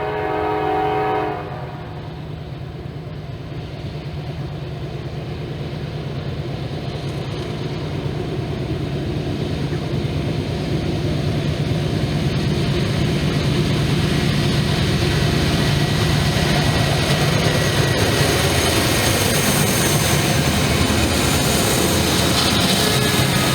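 A diesel freight locomotive's horn sounds a multi-note chord, cutting off about a second in. The train's engine rumble and wheel noise then grow steadily louder as it approaches and passes.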